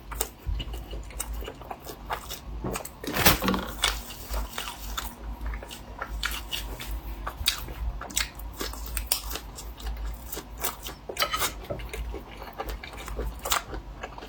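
Close-miked eating: a person biting and chewing crunchy food, with a run of crisp crunches and a louder bite about three seconds in.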